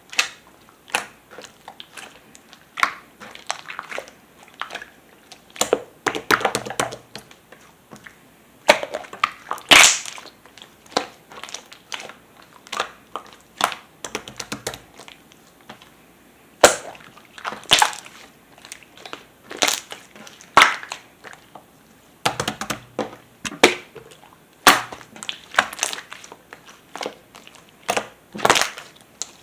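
Metallic pearl slime being pressed, squeezed and stretched by hand, giving irregular sticky clicks and short crackly pops in clusters.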